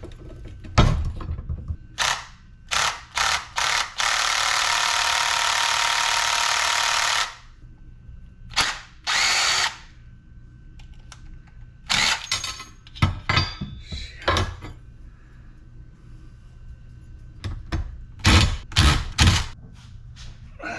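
Power drill running in a series of short bursts, then one longer run of about three seconds, then two more short bursts. Sharp metal knocks and clatter follow in the second half as parts are handled.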